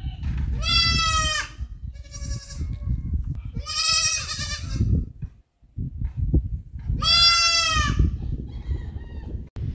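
A goat bleating: about four drawn-out, wavering calls, the loudest near the start, the middle and late on, over a low rumble.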